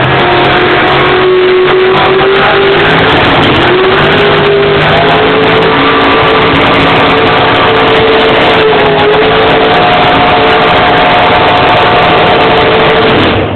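427 big-block Chevy V8 with a 1050 Dominator carburettor and solid roller cam, running loud at full throttle in a pulling tractor. Its pitch climbs briefly, then holds nearly flat at high revs: the engine is sitting on its 6,800 rpm rev limiter and needs to rev higher. It drops away suddenly near the end.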